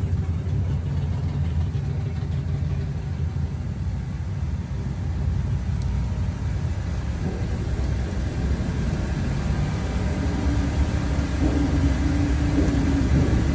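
A neighbouring drag race car's engine running steadily with a low rumble.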